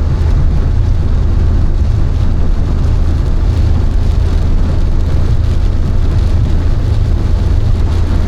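Car driving at road speed, heard from inside the cabin: a steady low drone of engine and tyre noise with an even hiss of road noise above it.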